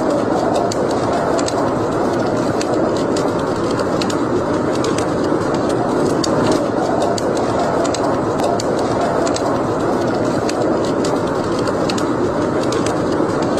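Wood fire burning in a fireplace: a steady rush of flames with frequent sharp, irregular crackles and pops.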